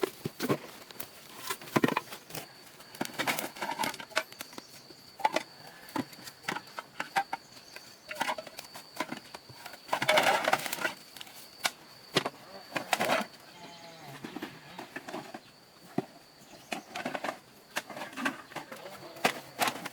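Irregular clicks, knocks and clatter, like hard objects being handled, with a denser burst about halfway through and a faint steady high whine underneath.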